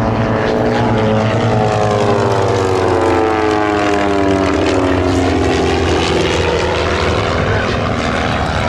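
Propeller airplane flying past, its engine drone dropping in pitch over a few seconds in the middle as it goes by.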